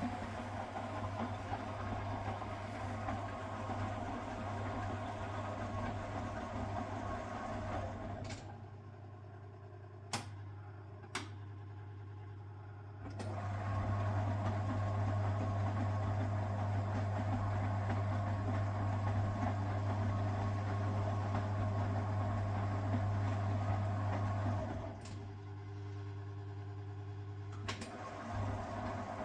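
1969 Zanker VA520 washing machine running, its Hanning gear motor humming steadily. The motor stops about a third of the way in, two sharp clicks of the timer or relay follow, and it restarts louder. It pauses again near the end with another click before running on. This is the stop-and-start rhythm of the drum turning during the wash.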